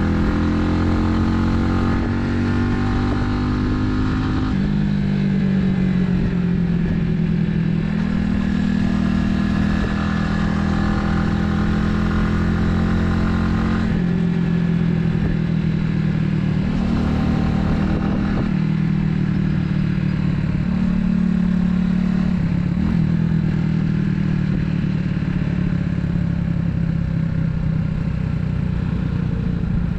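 Italika 250Z motorcycle engine running while riding, its pitch shifting up and down several times as the revs change.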